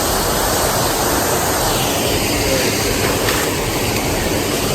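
Steady rush of a waterfall pouring into its pool.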